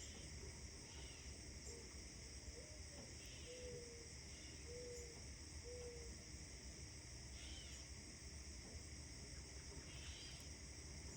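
Faint birdsong: short chirps every second or two, and a run of four or five low, even hooting notes from about two and a half to six seconds in, over a steady high hiss and a low rumble.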